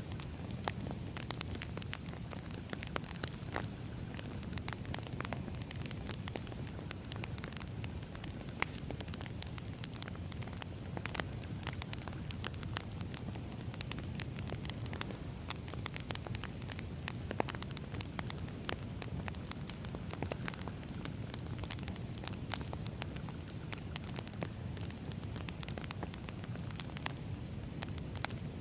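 Wood fire burning, with a steady low rumble and frequent irregular crackles and pops, a few sharper ones standing out.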